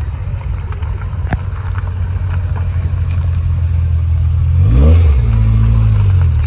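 Car engine idling with a steady low drone, then a quick throttle blip about three-quarters of the way through, the pitch sweeping up and dropping back before it settles to idle again.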